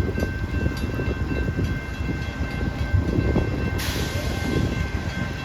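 Amtrak diesel locomotive, which the railfan takes for a GE Genesis P42, running with a deep rumble and steady whining tones over it. About two-thirds of the way through, a hiss sets in.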